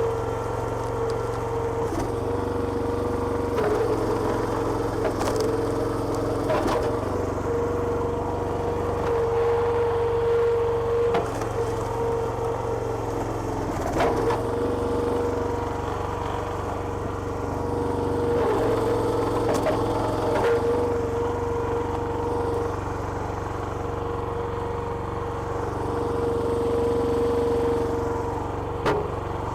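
Petrol engine of a homemade hydraulic log splitter running steadily, its note sagging slightly now and then under load, with sharp cracks of wood splitting every few seconds.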